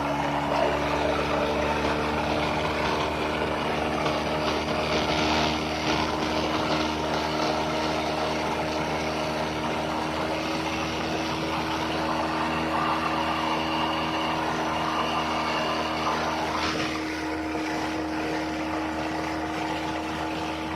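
Honda 9.9 four-stroke outboard motor running at a steady speed, its pitch settling just at the start and the sound easing slightly near the end.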